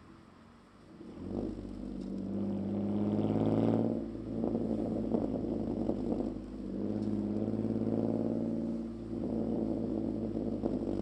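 Ford Mondeo ST220's straight-piped 3.0 V6 engine and exhaust running under throttle, the note rising and falling in several surges after a quiet first second.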